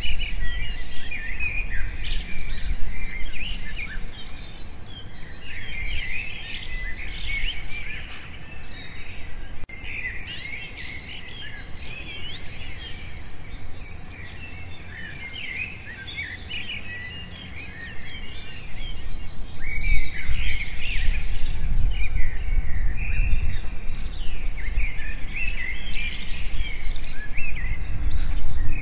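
Many birds chirping and calling at once, with a thin, high, steady note held for several seconds in the middle. A low rumble underneath grows louder in the last third.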